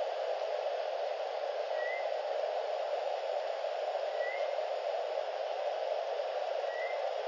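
Steady hiss with a short, faint rising chirp from a bird repeating about every two and a half seconds, three times.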